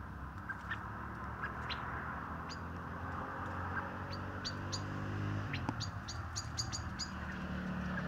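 Sharp, short bird calls, single at first and then in quick runs of several in the second half, over a low steady hum.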